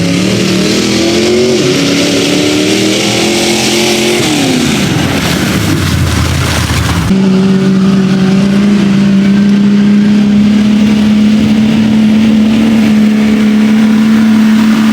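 An off-road vehicle's engine at full throttle, its pitch climbing for about four seconds and then dropping. About seven seconds in the sound changes abruptly to an engine held at a steady high rev, easing off at the end.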